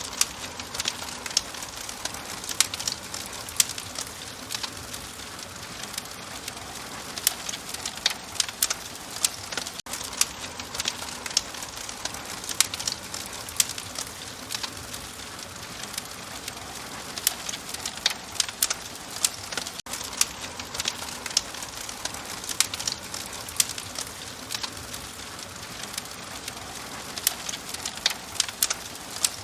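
Open wood fire crackling: frequent irregular sharp pops and snaps over a soft steady hiss.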